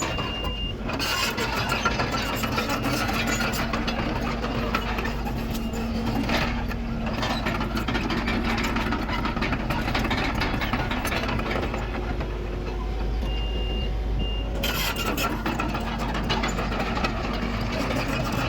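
Heavy diesel earthmoving machinery running steadily under work, with a short high-pitched backup-alarm beep at the start and two more beeps near the end.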